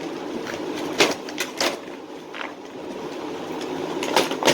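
A handful of sharp clicks and knocks from a small object being handled, over a steady background hum. The loudest clicks come about a second in and just before the end.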